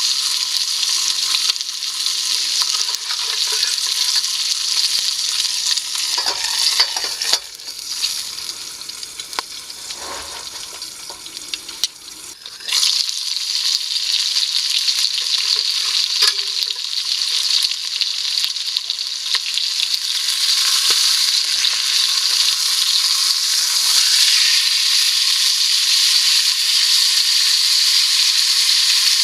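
Food sizzling steadily in a pan over a fire. The sizzle dies down for a few seconds about a quarter of the way in, then comes back abruptly and runs on evenly.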